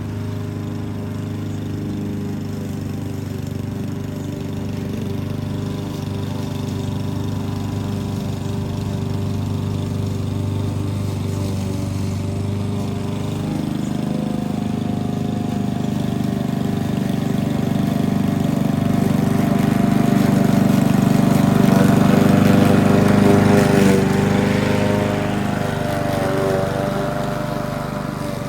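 Lawn mower engine running steadily while cutting grass, growing louder about two-thirds of the way through and easing off again near the end.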